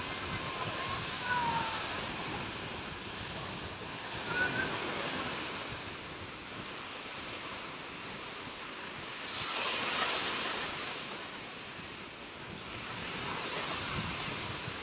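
Sea waves washing onto a beach, a steady rush of surf that swells louder twice, about two-thirds of the way through and again near the end, with wind buffeting the microphone.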